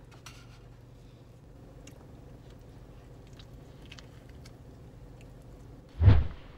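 Faint, soft mouth sounds of a person biting into and chewing a pita sandwich stuffed with chicken, hummus and vegetables, with scattered small wet clicks. About six seconds in there is a short, loud low sound.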